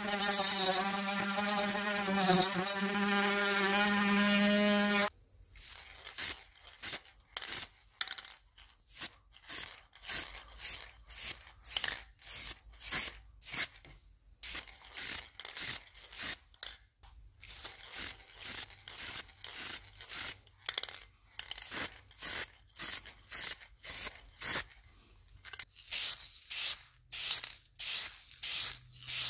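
Melodic background music for about the first five seconds, then a long run of short, evenly repeated hissing strokes from body-repair work, about one or two a second.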